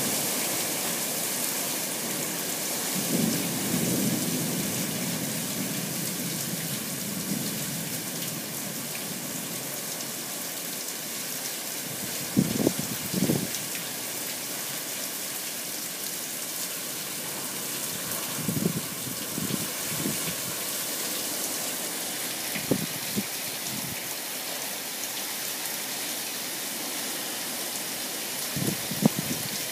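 Heavy hurricane rain pouring down steadily. A low swell rises a few seconds in, and several short low thumps come at intervals, the sharpest about twelve to thirteen seconds in and again near the end.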